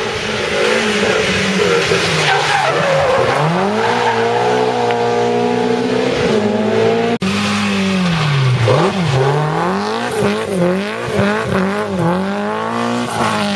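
Rally car engines revving hard and changing pitch through a corner, with tyres squealing. After a sudden cut about seven seconds in, a second car follows, its revs rising and falling quickly again and again.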